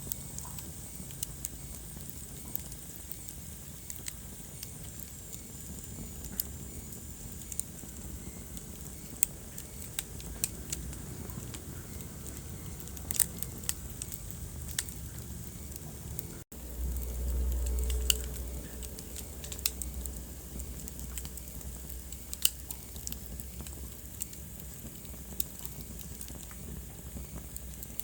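Wood fire crackling in a fireplace: scattered sharp pops and snaps over a low steady rumble. About two-thirds of the way through the sound cuts out for an instant, then the low rumble comes back louder for a couple of seconds.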